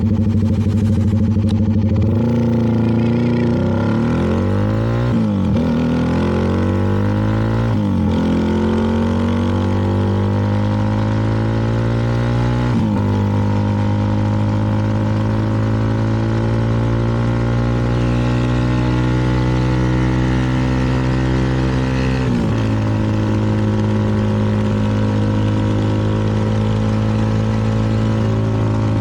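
CFMoto 300NK's single-cylinder engine pulling away from a steady low speed about two seconds in. Its pitch climbs and drops sharply at each of four upshifts, then it holds a steady cruise.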